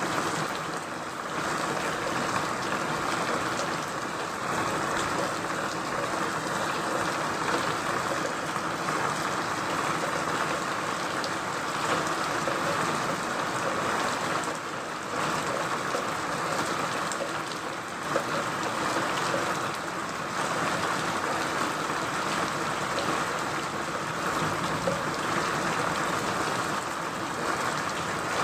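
Steady rain falling, a dense even hiss that swells and eases every few seconds.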